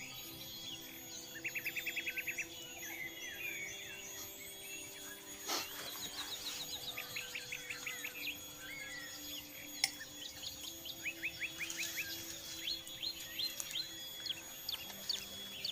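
Forest birds calling: a quick run of about ten even chirps about two seconds in, then several series of short, rapid chirps, over a steady high background drone typical of insects.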